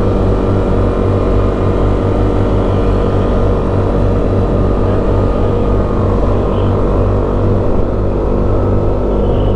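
Motorcycle engine running steadily under load on a long uphill climb, with rushing noise.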